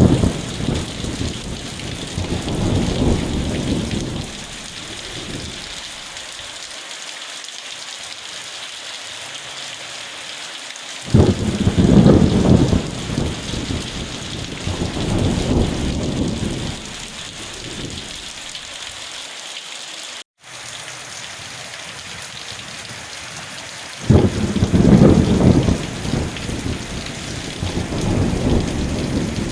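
Steady heavy rain with rolling thunder: one rumble fading out at the start, another breaking about eleven seconds in and a third about twenty-four seconds in, each dying away over several seconds. The sound cuts out for an instant about twenty seconds in.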